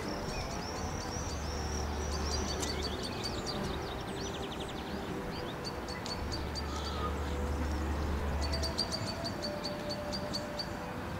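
Songbirds singing: a mix of high chirps and short warbles, then a quick run of evenly repeated high notes near the end. A low rumble comes in twice beneath it.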